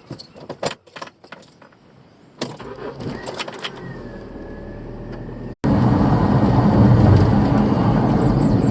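A few sharp clicks and knocks, then an engine starting and picking up. After an abrupt cut, a motor runs loudly and steadily.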